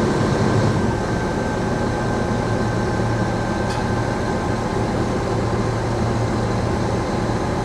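Heavy diesel engine of a crane running steadily with a low, even drone.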